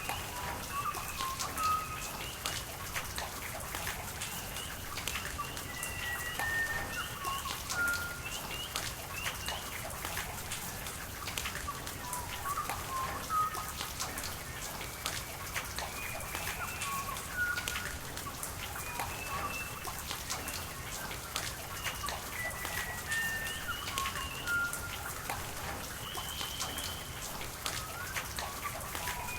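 Steady rain with drops ticking sharply, and birds calling in short chirps on and off throughout.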